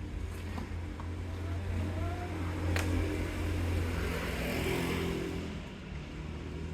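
A motor vehicle passes by: a low engine rumble swells to its loudest around four to five seconds in, then fades. A single sharp crack comes about three seconds in.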